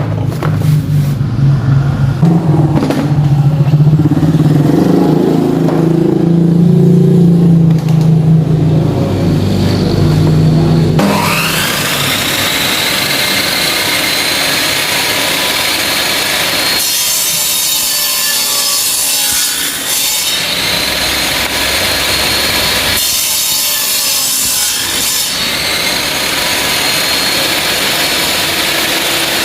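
A circular saw machine's motor starts about a third of the way in, its whine rising quickly to a steady pitch. It then runs steadily while grinding the teeth of a 48-tooth saw blade to sharpen them. Before that there is a lower, uneven hum.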